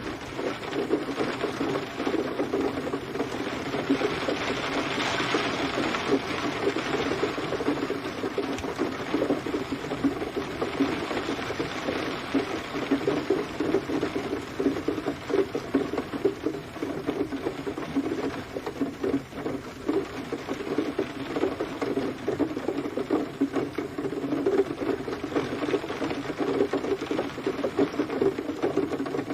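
Steady rain falling, a dense irregular patter of drops hitting a surface over a constant hiss.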